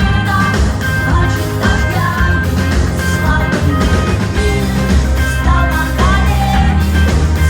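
Live rock band playing loud, recorded from the audience, with electric guitar, heavy bass and drums, and a voice singing at times.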